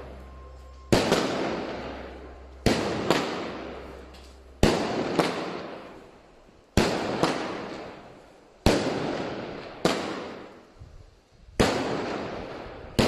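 Fireworks going off one after another, about every two seconds: each a sharp bang followed by a tail that slowly fades.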